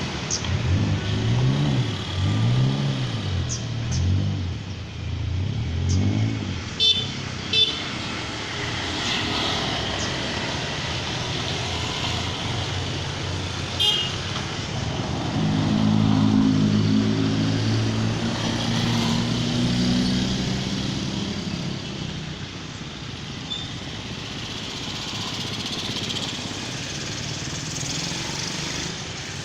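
Road traffic, mostly motorcycles and cars, passing with engine pitch rising and falling, with a few short horn beeps near 7 and 14 seconds in and one steadier, heavier engine from about 15 to 21 seconds in.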